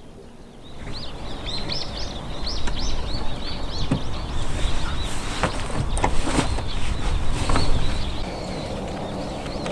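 Small birds chirping in quick, short rising calls over a low rumble. From about four seconds in come rustling and a few sharp clicks.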